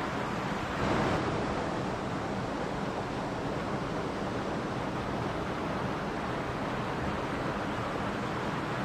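Mountain stream rushing and splashing in a steady, even roar of water, with a brief surge about a second in.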